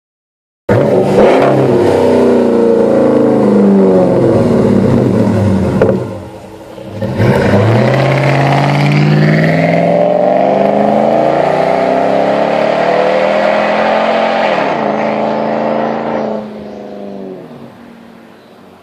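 Hemi V8 exhaust of a 2013 RAM 1500 through a Cherry Bomb Extreme muffler with the resonators deleted, revving loudly. The engine note eases off briefly about six seconds in, then climbs sharply and holds high. A few seconds before the end it drops away and fades.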